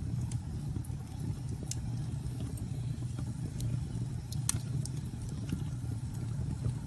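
Wood fire crackling: scattered sharp pops and snaps, the loudest about four and a half seconds in, over a steady low rumble.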